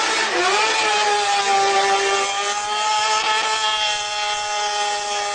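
Motorcycle engine at high revs. The pitch dips and climbs back within the first half second, then holds high and steady.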